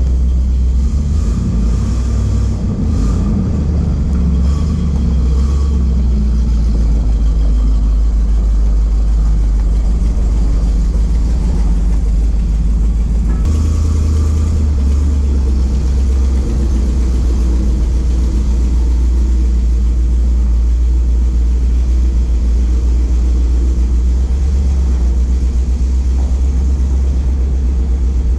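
Ford F700 truck's 370 V8 engine with a four-barrel carburettor running steadily, its note shifting about halfway through.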